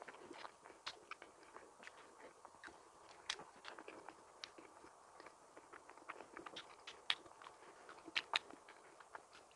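A person chewing and biting a donut close to the microphone: irregular wet mouth clicks and smacks, a few of them sharper and louder towards the end.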